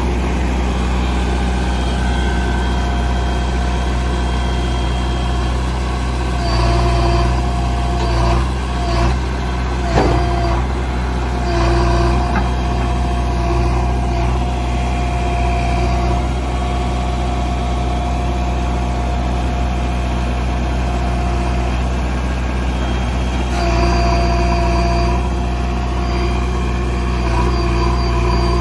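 JCB backhoe loader's diesel engine running steadily with a held whine, picking up briefly several times, around 7, 12 and 24 seconds in. A single sharp knock about ten seconds in.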